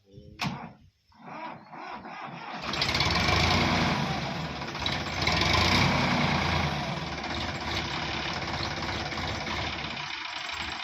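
Diesel tractor engine comes in loudly about two and a half seconds in after a few scattered knocks, then runs steadily with its revs swelling twice.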